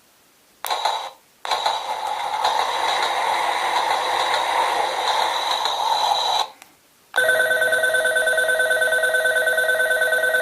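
A model-railway sound unit's station departure bell, an electric bell ringing steadily for about five seconds. About seven seconds in it gives way to a level-crossing alarm, a steady pulsing electronic two-tone.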